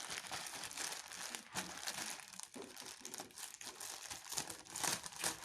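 Packaging crinkling and rustling in hands as a parcel is opened, an irregular crackle with a few louder crinkles near the end.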